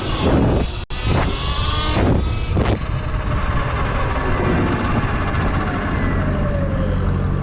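Heavy wind rumble on the microphone of a moving Sur Ron electric dirt bike, with faint whining tones that slide in pitch. There are several louder rushes in the first three seconds, and the sound drops out for an instant about a second in.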